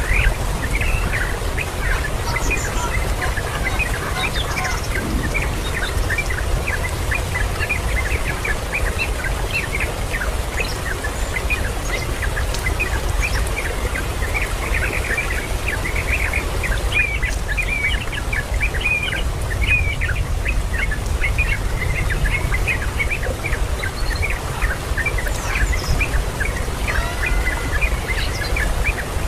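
Many birds chirping in short, rapid calls, thickest from about a third of the way in, over a steady low rumble.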